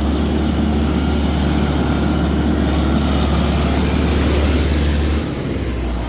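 Tractor engine running steadily with a deep hum, which drops off about five seconds in as the throttle eases.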